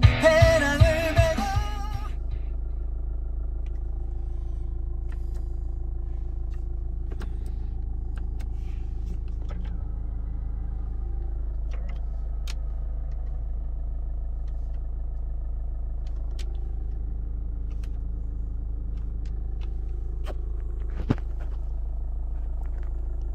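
Hyundai Tucson 2.0 turbo diesel engine idling steadily, with a few faint light clicks.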